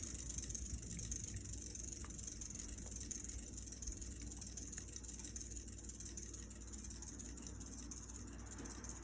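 Seagull Lighting Main Street ceiling fan running on high, a steady motor hum with a whir of air, with a few faint ticks.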